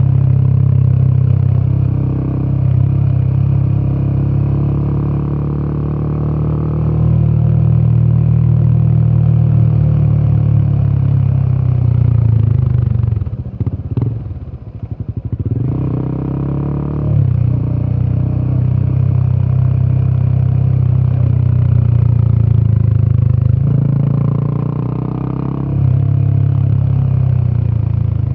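Royal Enfield Himalayan 450's single-cylinder 450cc Sherpa engine running steadily on the road, its exhaust note loud and deep. About halfway through, the note dips and wavers for a couple of seconds, then comes back steady.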